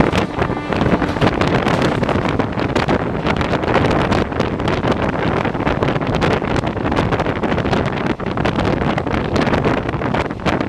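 Indian Railways train running at speed, heard from on board: a steady rumble and rattle of wheels on the rails, with wind buffeting the microphone.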